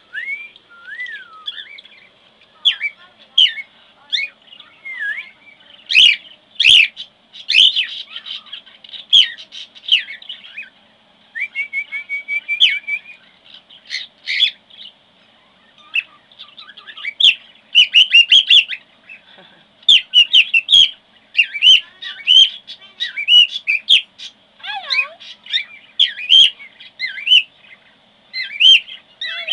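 Young male cockatiel whistling and chirping: a stream of short whistles and chirps that glide up and down, with a few sharp clicks among them.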